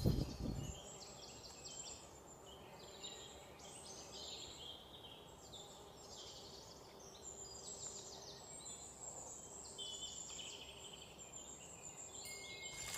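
Several songbirds chirping and singing faintly over a low outdoor hiss, after music fades out in the first second.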